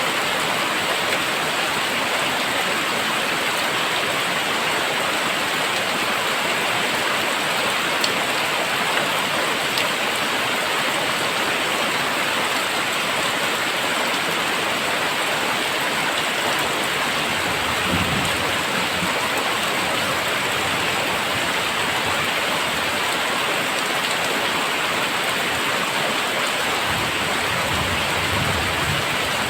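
Very heavy rain falling steadily, an even hiss of downpour. Two brief low rumbles come through, one a little past halfway and one near the end.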